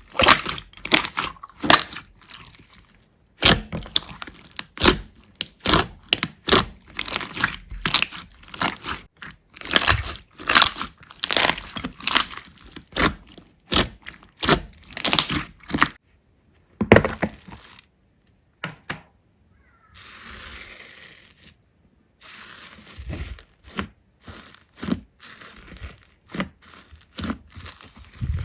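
Slime being squeezed and pressed by hand, giving a fast, irregular run of crackling pops and clicks in clusters, broken by short pauses. About twenty seconds in there is a brief soft, steady hiss, and the popping after it is quieter.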